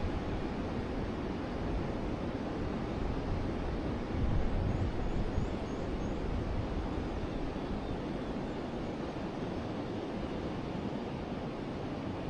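Forest river flowing, a steady rushing noise, with a brief low surge about four seconds in. A few faint, high bird chirps come just after it.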